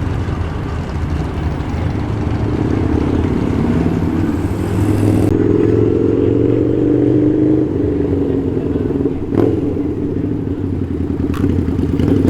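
A car engine running at low speed, its pitch rising slowly and then dropping back as it eases off, with two sharp clicks in the second half.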